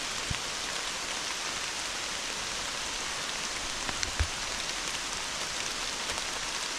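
Hard rain falling steadily, an even hiss, with a couple of sharper drop hits, one just after the start and one about four seconds in.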